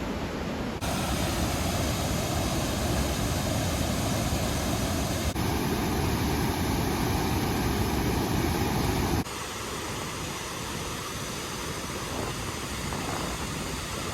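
Steady rush of a fast-flowing waterfall, a dense even noise that steps abruptly louder or quieter about one, five and nine seconds in.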